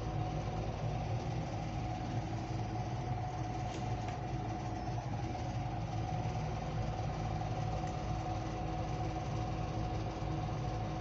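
Ceiling fan running, its motor giving a steady hum with a constant whine over it, after being switched down from full speed.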